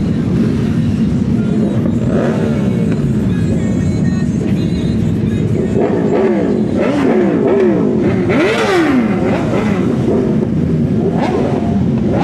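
Several motorcycle engines running and being revved, the pitch sweeping up and down again and again, with a burst of quick revs about halfway through. Background music plays underneath.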